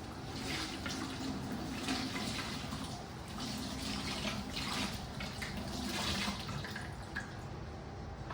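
Water running from a tap into a sink, splashing unevenly.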